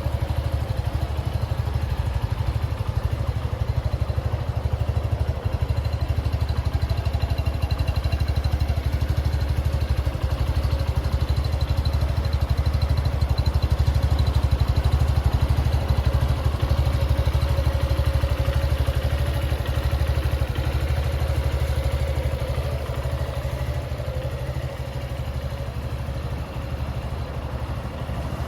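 Suzuki Gixxer 150's air-cooled single-cylinder engine running steadily at idle, with no revving.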